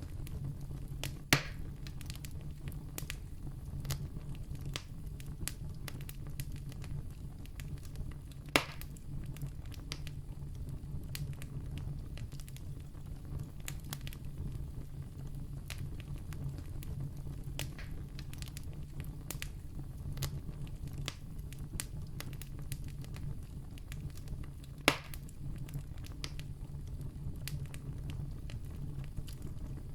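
Wood campfire crackling steadily over a low rumble, with many small snaps and three louder pops.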